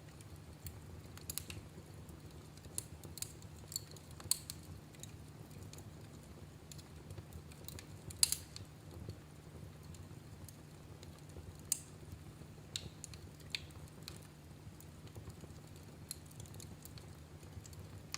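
Wood fire in a fireplace crackling, with irregular sharp pops over a steady low rumble; the loudest pop comes about eight seconds in.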